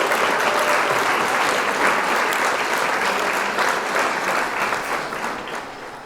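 Peppers, onions and garlic sizzling in a pot, a steady crackling hiss that slowly fades away near the end.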